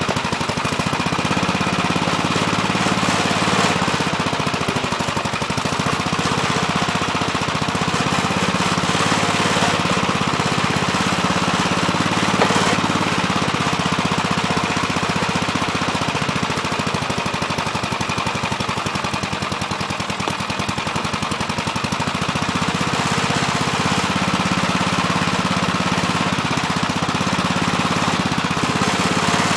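Gravely Terramite backhoe engine running steadily at working speed, its pitch sagging and recovering briefly about five seconds in and again near twenty seconds.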